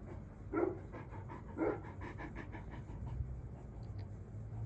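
Great Pyrenees dog panting in quick, even breaths, with two brief louder sounds about half a second and a second and a half in.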